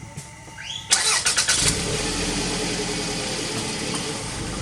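A quick run of loud, sharp cracks about a second in, then a car running steadily.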